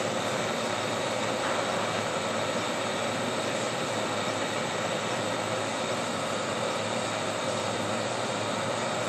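Small thermal lag Stirling engine running at a steady speed: an even, unbroken whirring hiss with no separate strokes to be heard.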